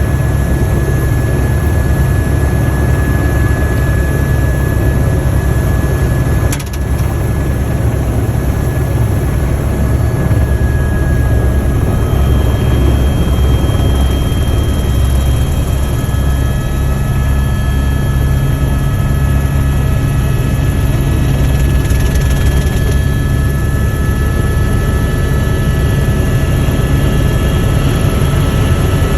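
Helicopter in flight: a loud, steady low drone of rotor and turbine with a faint high whine over it, dipping briefly about six seconds in.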